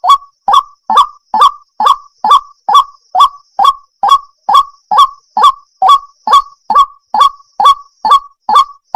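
Waterhen (jal murgi) calling: the same short, honking call repeated at an even pace, a little over two calls a second.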